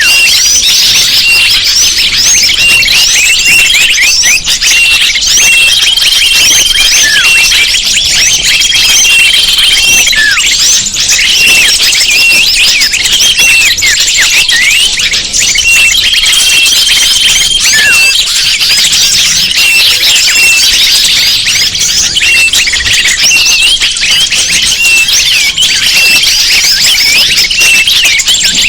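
A dense chorus of many small birds chirping and trilling over one another without a break. A level whistled note, held for about a second, recurs every few seconds. It is a bird-lure (pikat) recording, played to draw wild birds in.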